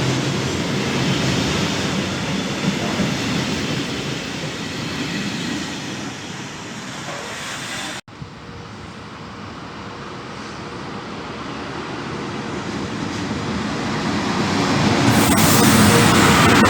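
Train running past on the line, its rumble fading away; after a sudden break, a train approaching and growing steadily louder.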